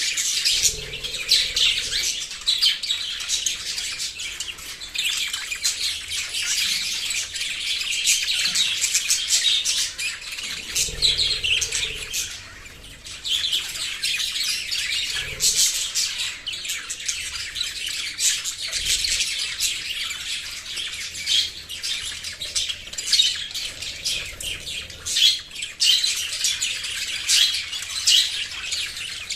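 A flock of small pet parrots chirping and chattering non-stop in high, rapid, overlapping calls, with a brief lull about twelve seconds in.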